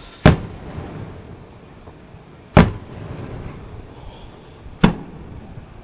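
Aerial fireworks going off: three loud booms about two seconds apart, the first preceded by a short hiss.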